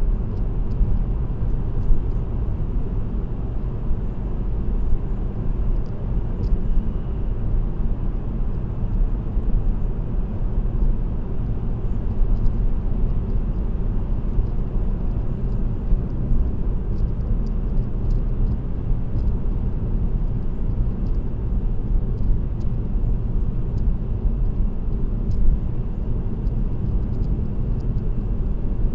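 Steady low rumble of a car cruising at expressway speed, tyre and road noise with the engine, heard from inside the car, with a few faint light ticks.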